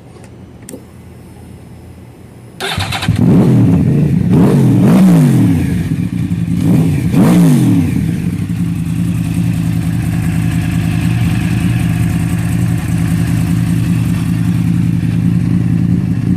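2009 Yamaha R1's inline-four engine through a Two Brothers aftermarket exhaust, starting up about three seconds in. It is revved up and down a few times, then settles into a steady idle.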